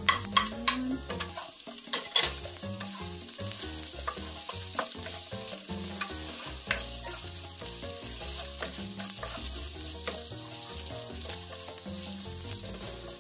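Garlic and sliced onion frying in hot oil in a nonstick pan: a steady sizzle, with sharp clicks of a spoon and plate against the pan in the first couple of seconds as the onion goes in, and occasional taps of the spatula as it is stirred.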